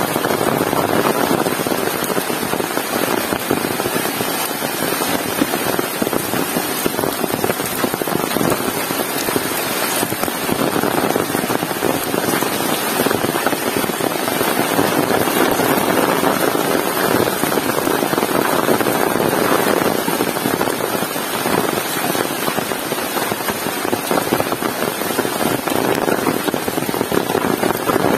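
Heavy rain falling steadily, a dense even downpour.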